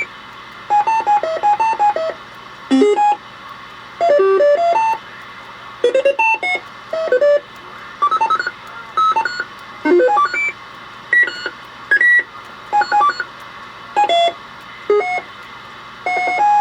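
Roger-beep sound box playing a run of short electronic roger beeps one after another. Each is a quick tune of stepping tones lasting under a second, coming about once a second.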